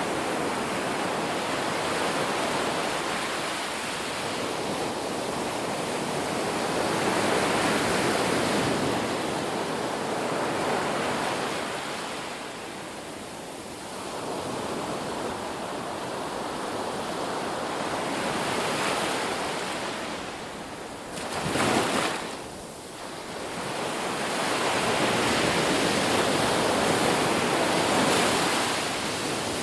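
Sea waves breaking and washing, swelling and fading in slow surges, with one short, louder crash about three-quarters of the way through.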